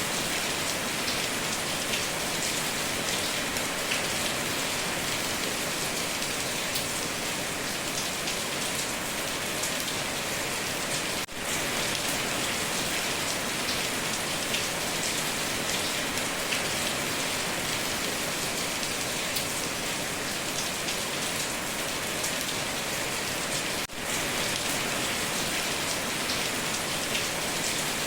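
Heavy rain falling on a tin roof: a steady, dense hiss with scattered sharp drop ticks. It cuts out briefly twice, about eleven seconds in and again a few seconds before the end.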